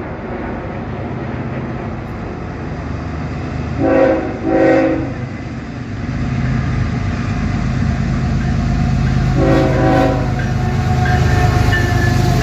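Lead GE ES44AH diesel locomotive's Nathan K5HL air horn sounding two short blasts a few seconds in, then a longer blast about five seconds later. Beneath the horn, the rumble of the approaching diesel locomotives grows louder.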